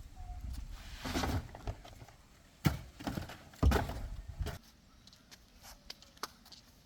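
A few sharp knocks and clunks, the two loudest about a second apart near the middle, over a low rumble that fades out after about four and a half seconds.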